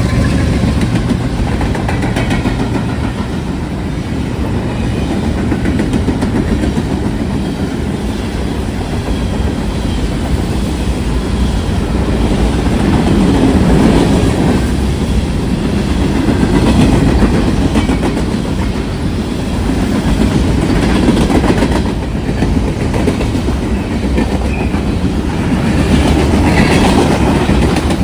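A train rolling past, its wheels clattering over the rail joints in a steady rumble that swells and eases every few seconds as the cars go by.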